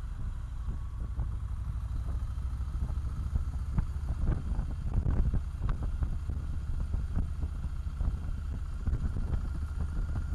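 Motorcycle running on the move, a steady low rumble with a faint steady whine above it, and wind buffeting the microphone in irregular crackles.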